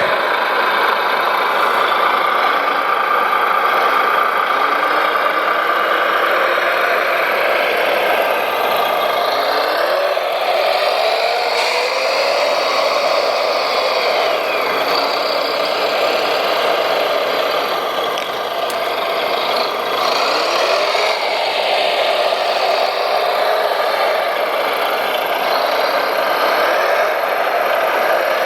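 Radio-controlled model construction machines running: a steady mechanical whine and hum from their motors and gears, with the pitch rising several times as they speed up under load.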